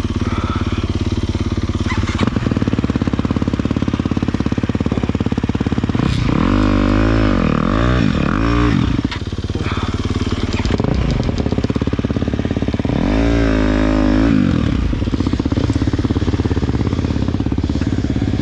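Dirt bike engine running close by, its throttle blipped in quick rises and falls in pitch about six to nine seconds in and again around thirteen to fourteen seconds in.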